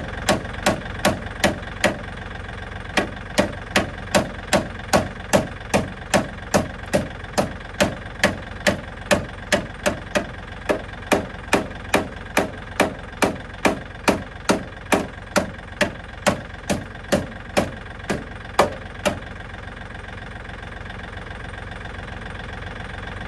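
Hammer striking the car's steel chassis, about two to three blows a second with a short break about two seconds in, stopping about nineteen seconds in. The blows relieve the bent metal while it is held under tension, over a tractor engine idling steadily.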